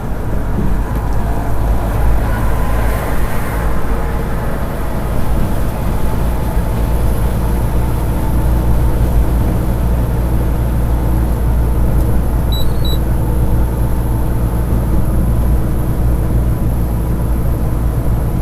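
Semi truck running down the road: a steady, loud, low rumble of engine and road noise. Two short, faint beeps sound about twelve and a half seconds in.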